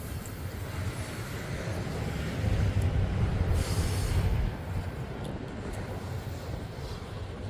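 Freight train rolling past: a steady rumble of cars on the rails, louder for a couple of seconds in the middle.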